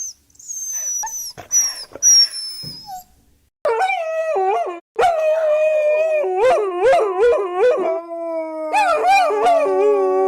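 Dogs howling: long, wavering howls begin a few seconds in, and near the end several voices overlap. Before the howls there is a string of short, high chirping squeaks.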